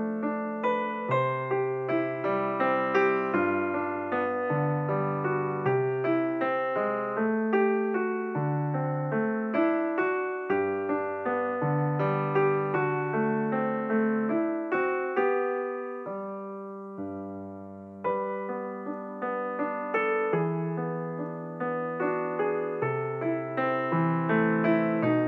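Background piano music, a steady flow of struck notes that ring and die away. The notes fade out about sixteen seconds in and pick up again about two seconds later.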